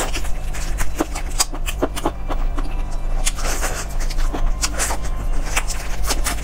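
Close-miked eating of roast chicken leg: many short wet clicks of chewing and lip smacking as the meat is bitten and pulled apart, over a steady low hum.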